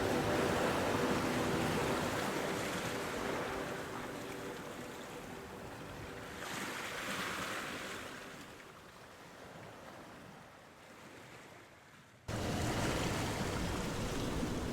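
Ocean waves washing on a shore: the surf slowly dies away, with a smaller wave swelling about seven seconds in, then cuts abruptly back to louder surf near the end.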